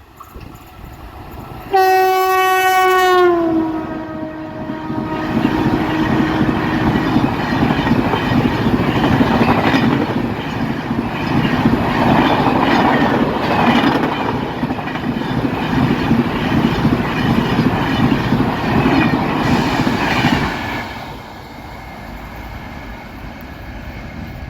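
Indian Railways electric locomotive blowing its horn about two seconds in, the horn's pitch dropping as it passes. The express train's coaches then rush by with a rhythmic clickety-clack of wheels over the rail joints, and the sound falls away sharply near the end.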